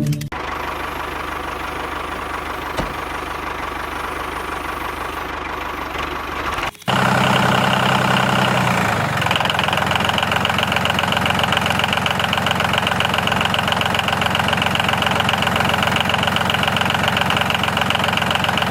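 The motor of a DIY miniature tractor runs steadily, with an engine-like idling sound as it drives a home-made double water pump. About seven seconds in, the sound cuts off sharply and comes back louder.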